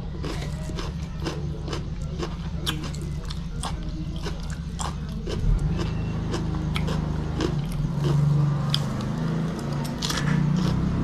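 Close-up chewing of raw vegetables: irregular, crisp crunches as string beans, okra and greens are bitten and chewed, over a steady low hum.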